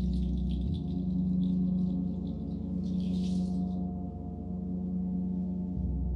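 A gong resonating in a long sustained hum with many steady overtones. A light high shimmer of chimes or a rattle sits over it and fades out about four seconds in.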